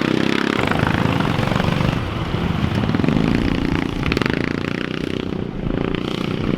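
Engines of small off-road race vehicles running at the track.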